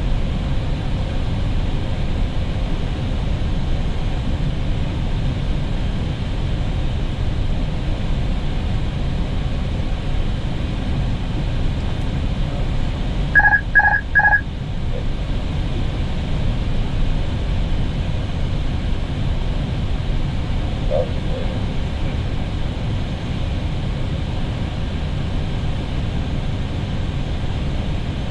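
Steady rush of airflow and engine noise on the Airbus A320neo flight deck during the approach. Three short electronic cockpit beeps come about halfway through.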